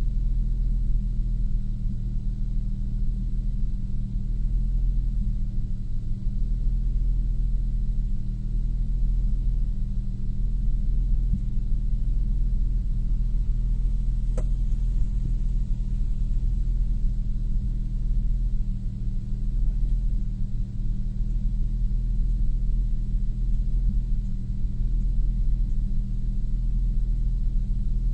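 2002 Nissan Maxima's 3.5-litre VQ35DE V6 running steadily, a low even rumble, with a single sharp click about halfway through.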